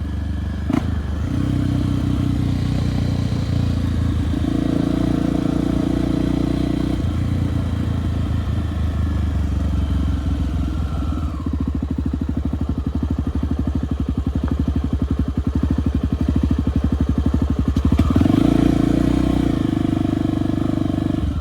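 Single-cylinder enduro motorcycle engine running under way. It rises in revs twice, once a few seconds in and again near the end, with a slower stretch between where the separate firing pulses can be heard. A sharp click comes about a second in.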